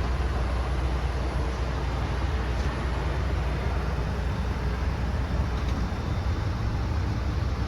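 The 2019 Ford F750's 6.8-litre V10 gas engine running steadily, a low, even rumble with no change in pace.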